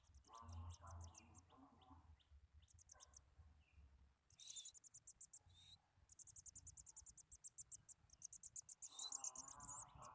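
Small songbird singing rapid, high-pitched trills in repeated bursts, loudest near the end.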